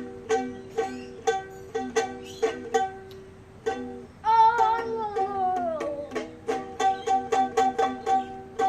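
Music: a plucked string instrument strummed in a steady rhythm of repeated chords. About four seconds in the strumming stops while a voice holds one long note that slides downward, then the strumming starts again.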